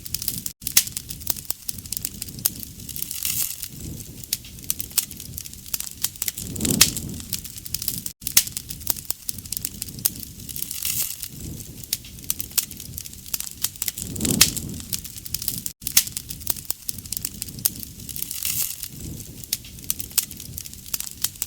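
Wood campfire crackling with many sharp pops and snaps, over a soft low rush of flame that swells about every seven to eight seconds. The pattern repeats at that interval, as a looped recording does.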